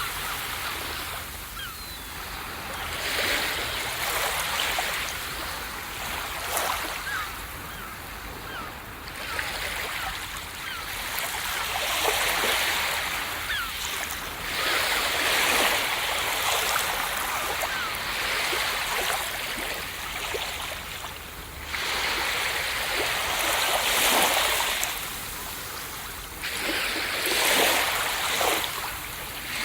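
Ocean surf breaking on a beach, the wash of the waves swelling and falling back every few seconds.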